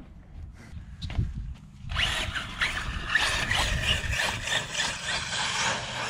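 Electric RC monster truck driving hard close by, its brushless motor and drivetrain running at speed, coming in suddenly and loudly about two seconds in.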